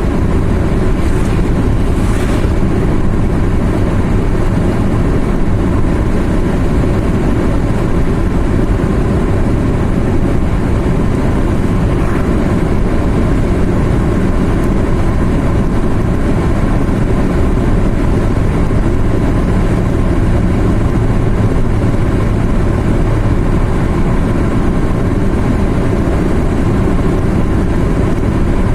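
A car driving at a steady pace, heard from inside the cabin: an even, low drone of engine and road noise.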